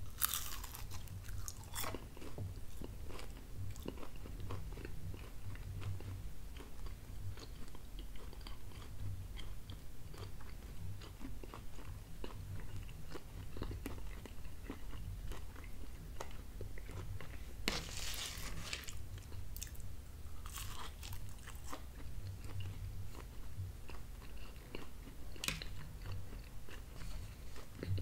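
A person chewing a slice of deluxe pizza close to the microphone: a steady run of small wet mouth clicks, with a few louder, sharper moments at the start, about two-thirds of the way through and near the end.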